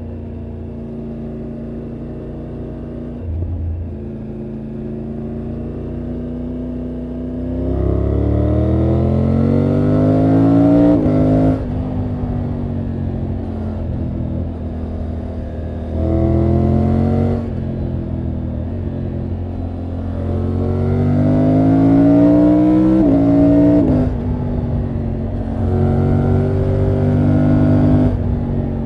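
Triumph Tiger 900 GT Pro's 888 cc inline three-cylinder engine and exhaust on the move: running steadily at first, then accelerating with its pitch climbing and dropping sharply at gear changes, about eleven seconds in and again near twenty-four seconds, with another pull near the end.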